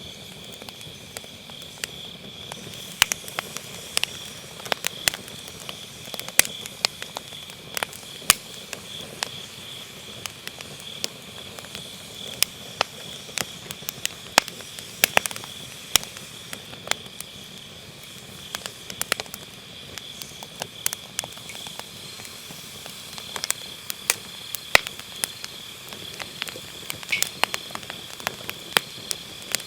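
Firewood burning in a fire pit, crackling with many sharp pops at irregular intervals, over a steady high-pitched trill of autumn night insects.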